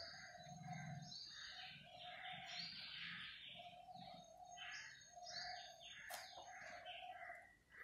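Faint bird chirping in the background, a string of short repeated calls.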